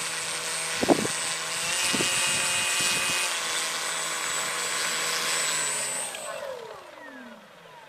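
Electric RC airplane motor and propeller running in flight, a steady pitched drone with a high whine above it; over the last two seconds the pitch falls and the sound fades away. A sharp knock about a second in.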